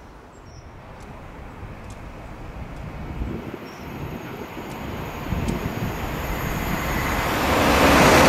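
A Class 91-hauled InterCity 225 electric train approaching at speed, its rumble and rail noise growing steadily louder.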